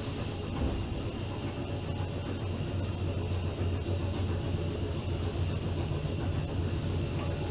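Electric train running steadily along the line, heard from inside the front car: a constant low hum with the rumble of wheels on rail.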